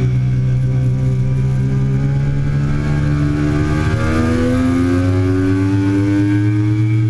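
2008 Triumph Daytona 675's inline three-cylinder engine running hard on track, its pitch rising from about four seconds in as it accelerates.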